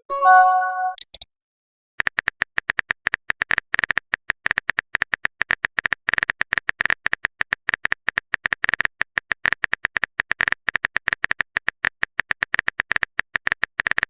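Typing sound effect: rapid, irregular clicks like keys being tapped, starting about two seconds in and running on. At the very start, a short chime of several tones, the kind of sound a chat app plays when a message arrives.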